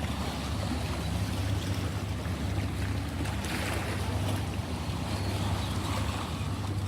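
Ocean waves: a steady rush of surf with a deep rumble underneath, one wave swelling louder about three and a half seconds in.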